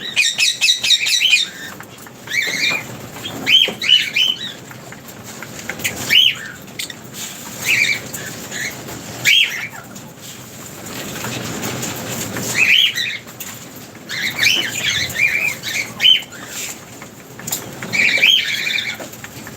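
Lovebirds calling with many short, sharp, rising chirps and squawks, coming in irregular clusters, including a quick clicky series at the start.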